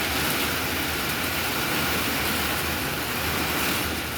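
Heavy rain falling in a severe thunderstorm, a steady hiss, with strong gusting wind rumbling unevenly on the microphone.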